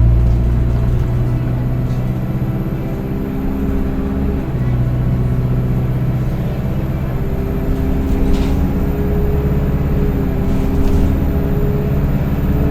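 Single-decker bus heard from inside while driving: the engine runs with a loud whine, the 'Loud Hoover' sound, whose tones step to a new pitch every few seconds as the bus changes gear and speed.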